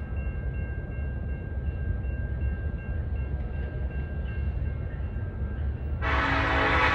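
Freight train boxcars rolling past: a steady low rumble with faint, thin high tones over it. Music comes in suddenly about six seconds in.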